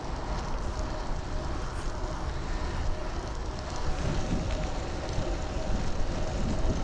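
Wind buffeting the microphone of a chest-mounted action camera while cycling, a constant low rumble, with the steady sound of city traffic beneath it.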